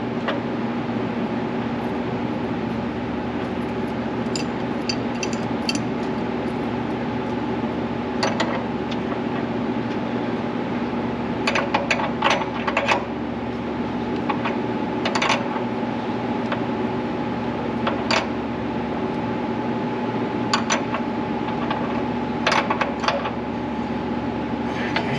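Scattered light metallic clicks and taps of hand tools working brake hose fittings, in small clusters every few seconds, over a steady shop hum with a few fixed tones.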